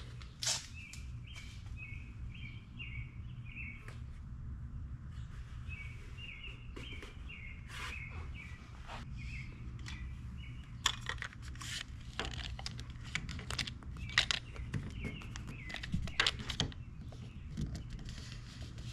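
A bird sings two quick runs of short, repeated chirps in the first half, over a steady low hum. Later come scattered clicks and rustles of painter's tape being torn and pressed onto a car door.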